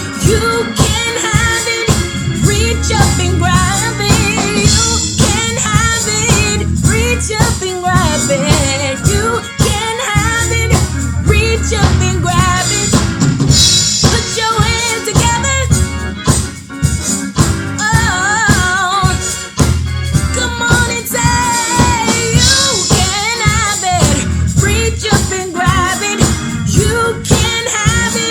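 Worship music with singing over a drum kit keeping a steady beat, with a heavy bass line underneath.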